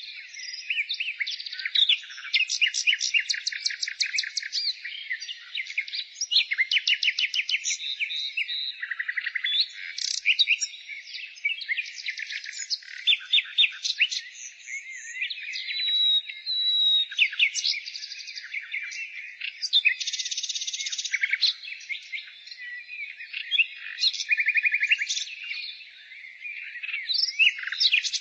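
Songbirds singing together in a dense chorus: overlapping fast trills, rapid strings of chirps and short whistled notes, with no pause throughout.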